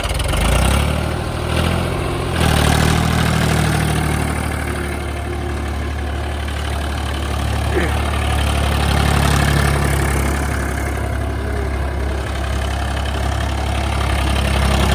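Tractor engine running hard under load, revving up, easing off for a moment about two seconds in, then holding high revs steadily.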